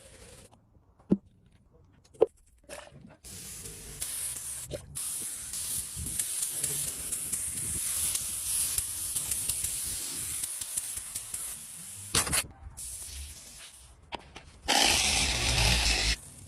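A couple of sharp clicks, then a steady spraying hiss lasting about eight seconds, and a shorter, louder burst of spray near the end.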